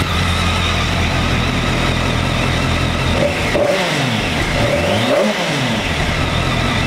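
2007 BMW K1200S's inline four-cylinder engine idling, with two short throttle blips about three and five seconds in, each rising and falling in pitch; pretty tame for the amount of power it has.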